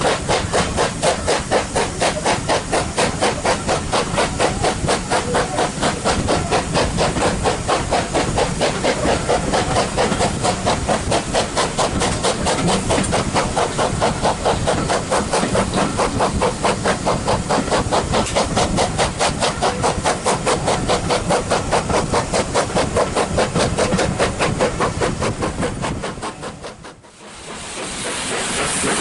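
Steam locomotive, the two-cylinder LMS Black Five 45212, working steadily with rapid, even exhaust beats over a hiss of steam. The sound fades away sharply near the end and then returns, hissier.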